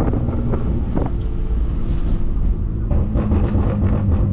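BMW S55 twin-turbo inline-six running with straight-through exhaust (catless downpipes, single mid pipe, valved axle-back with valves open), a steady low drone with crackling burbles near the start and again about three seconds in.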